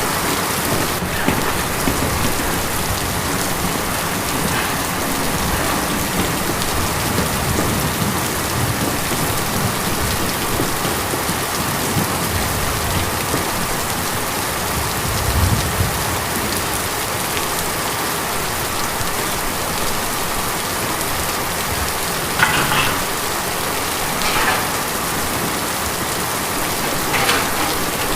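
Steady rain drumming on a tin roof, an even dense patter. A brief low rumble comes about halfway through, and a few louder drops hit in the last few seconds.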